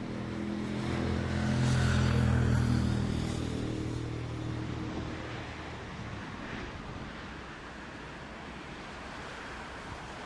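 Airbus A320neo jet engines passing close: a low drone that swells to its loudest about two seconds in and fades away by about five seconds. Gusty wind buffets the microphone throughout.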